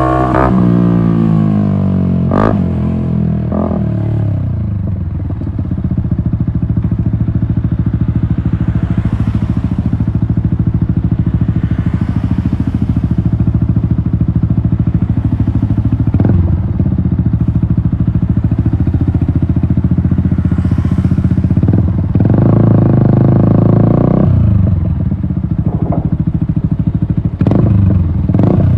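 Yamaha MT-125's single-cylinder four-stroke engine through an Akrapovic exhaust: revs falling away at the start, then running steadily at low revs for a long stretch. The revs rise briefly about three-quarters of the way through and drop again, with a few sharp clicks along the way.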